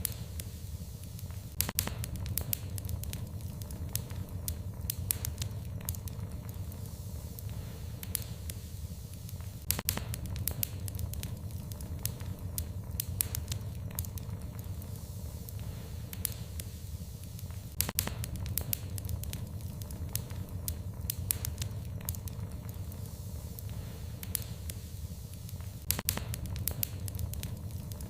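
Fireplace fire crackling over a steady low rumble, with many small snaps and a louder cluster of pops about every eight seconds.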